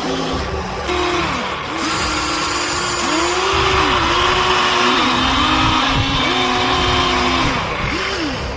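Small electric motors of radio-controlled construction machine models whining. Their pitch repeatedly rises, holds and falls as they speed up and slow down, over a constant mechanical hiss.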